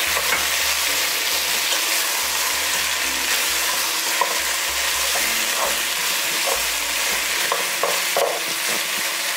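Lamb and potato chunks sizzling steadily in an enamelled pot while a spatula stirs them, with a few short scrapes against the pot about halfway through.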